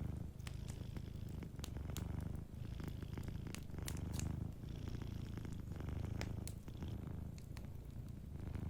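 A domestic cat purring steadily, the low purr swelling and easing with each breath about once every second or so. Over it, the sharp, irregular pops and clicks of a crackling wood fire.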